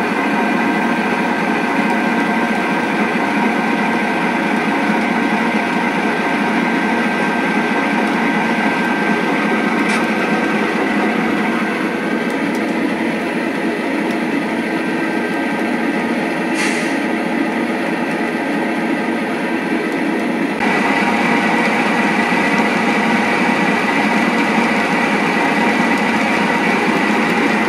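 A freight train running steadily, with a diesel engine drone over the rumble of rolling cars. There are two brief clicks, about ten and sixteen seconds in, and the sound steps up suddenly about twenty seconds in.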